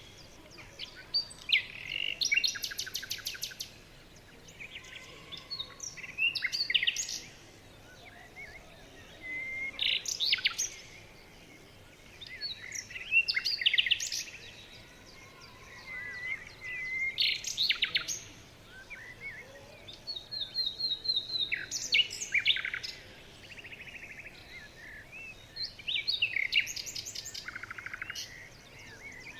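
Songbirds singing, short phrases with fast trills and chirps repeating every few seconds.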